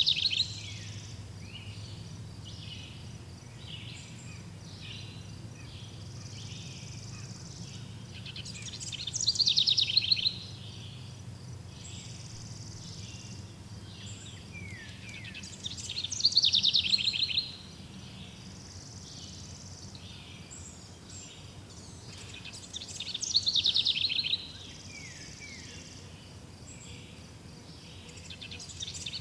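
Birdsong: one bird repeats a loud, rapid trilled phrase that falls in pitch and lasts about a second and a half, once every seven seconds or so, four times. Softer high chirps fill the gaps over a faint steady low rumble.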